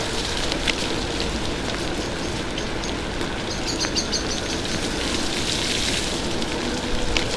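Heavy rain pouring down, an even hiss of rain and wet road, with a short run of high ticks about halfway through.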